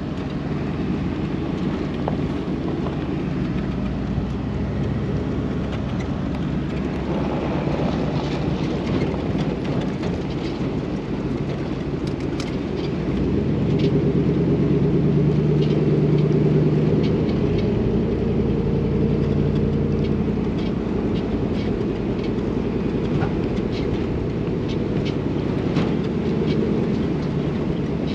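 A motor vehicle engine running steadily, swelling louder for a few seconds around the middle, with scattered light clicks and rattles.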